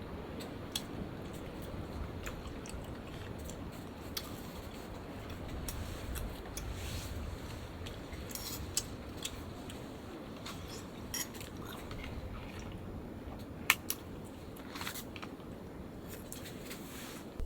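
Scattered small clicks and crunches over a steady low rumble, the sharpest click a little past the middle.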